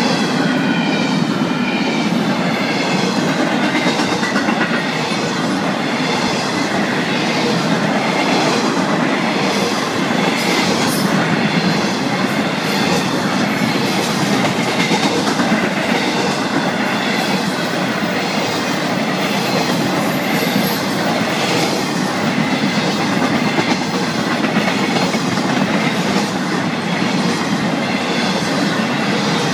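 Freight cars of a Florida East Coast Railway train rolling past, a steady, loud clatter of steel wheels on the rails.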